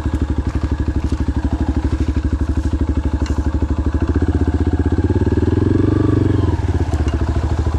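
Adventure motorcycle engine running at a steady pulsing idle, rising briefly in revs with a throttle blip through the middle and dropping back to idle about six and a half seconds in.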